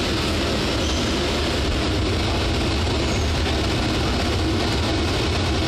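Steady, loud running noise of a Boeing 737-800 airliner and its pushback tug on the apron, an even low hum under a wide hiss with no distinct events.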